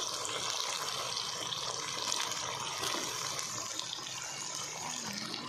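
Chicken and freshly added sliced tomatoes sizzling steadily in hot oil in a karahi, with a few light scrapes of a wooden spatula.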